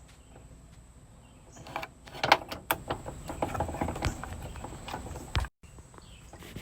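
Clicks, snaps and scraping of a dryer timer's plastic case being pried apart by hand, starting about two seconds in, with the sharpest snap soon after.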